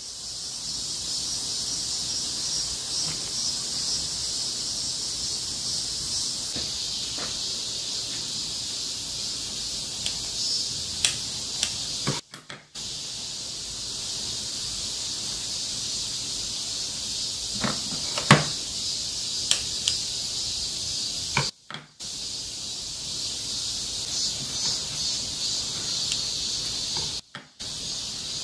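A steady high-pitched hiss of outdoor ambience runs under a few faint clicks and taps, and cuts out briefly three times.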